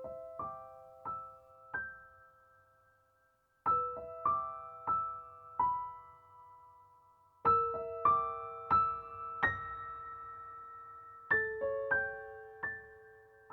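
Background music: a slow piano melody played as single ringing notes in short phrases of about four notes, with brief pauses between the phrases.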